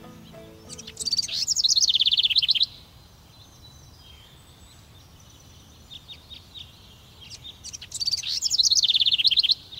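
Songbird song: a loud, rapid, high trilled phrase lasting about a second and a half, heard twice and cut off sharply each time, with faint scattered chirps between.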